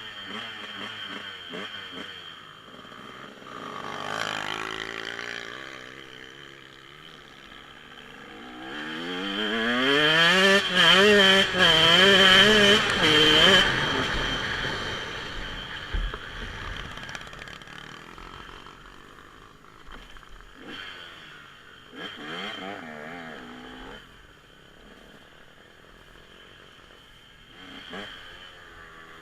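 Dirt bike engines revving up and down as bikes ride by. The loudest pass is about nine to fourteen seconds in, pitch climbing and dropping with the throttle; fainter passes come around four seconds and twenty-two seconds in.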